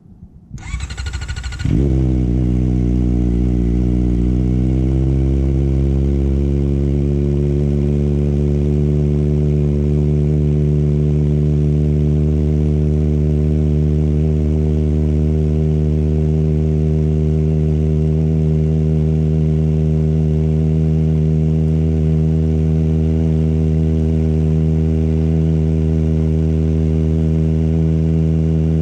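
Kawasaki ZX4RR's 399 cc inline-four cold-started through a Yoshimura Hepta full exhaust: the starter cranks for about a second, the engine catches, dips briefly in pitch, then settles into a steady idle.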